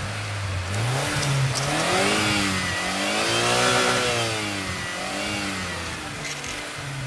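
Cartoon vehicle engine sound effect revving, its pitch rising and falling in several swells, the biggest near the middle.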